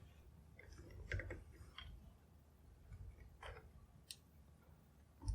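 Faint, scattered clicks and light knocks of small wooden pieces and tools being handled and set in place, a few irregular taps a second or so apart.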